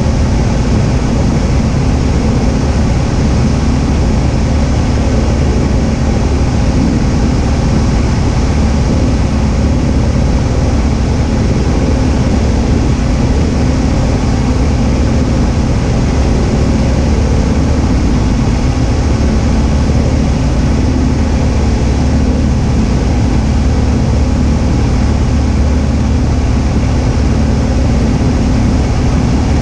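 Cessna 172H's six-cylinder Continental O-300 engine and propeller droning steadily in flight, with airflow noise over the airframe. The level stays even throughout, with no change in power.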